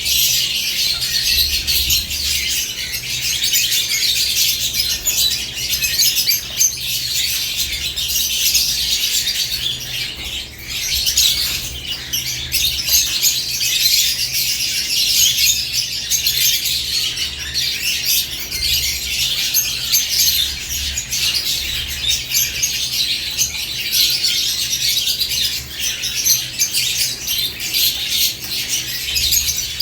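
Caged lovebirds chattering: a dense, continuous stream of high-pitched chirps and squawks from several birds, over a faint steady low hum.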